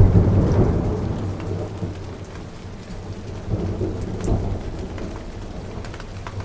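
Rain falling steadily with a peal of thunder that breaks suddenly at the start and rumbles away over a few seconds, then swells again briefly about four seconds in.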